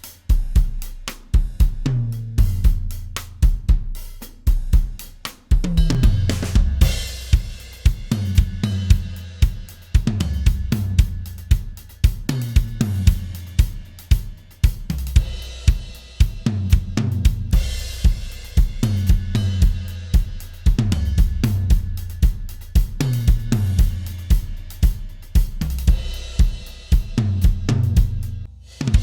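Mixed drum-kit recording playing a repeating groove: kick drum, snare, hi-hat and cymbals, in a pattern that recurs about every two seconds.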